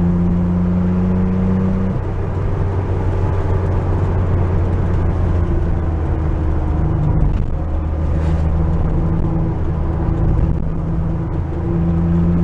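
Porsche 911's air-cooled flat-six engine running under way, its note stepping down about two seconds in and changing pitch again twice later, as with gear changes.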